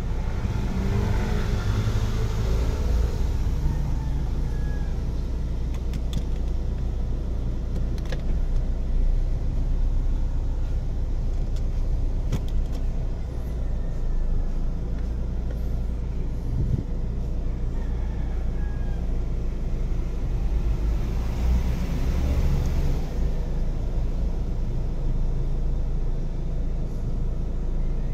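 Steady low rumble of a car idling, heard from inside its cabin, with a few faint clicks.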